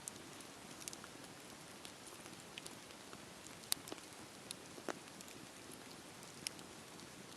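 Campfire burning with a steady soft hiss and scattered sharp crackles and pops, the sharpest about halfway through.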